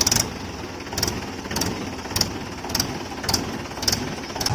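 Tractor engine running steadily, with a sharp click repeating about every half second.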